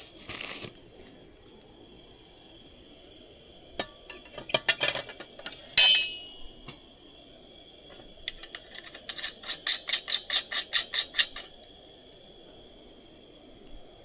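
Camping gear or dishes being handled: scattered light clinks, a ringing knock about six seconds in, then a quick run of about a dozen clicks, over a faint steady high tone.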